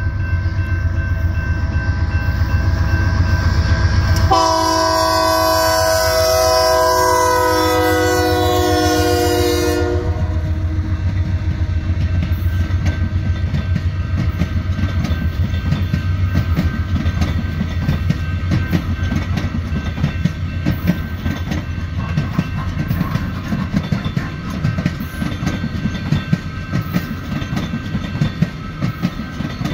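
Union Pacific diesel locomotive approaching with a low engine rumble. About four seconds in, its air horn sounds a multi-note chord for about six seconds. New VIA Rail Canada Siemens Venture passenger cars then roll past, their wheels clicking steadily over the rail joints.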